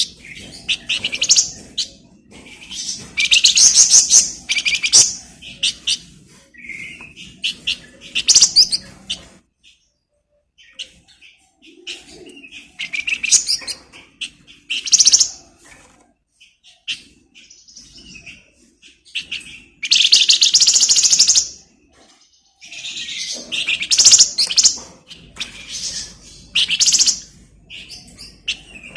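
A flamboyan songbird singing energetically in loud bursts of rapid, dense, high-pitched chattering trills, each lasting a second or two, with short pauses between phrases.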